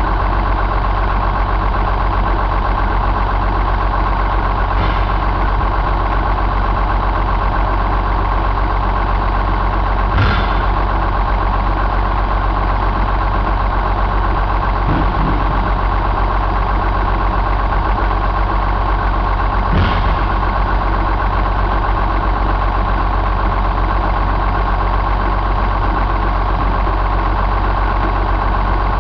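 John Deere 6068 6.8-litre inline-six diesel engine idling steadily, with a couple of brief light clicks about ten and twenty seconds in.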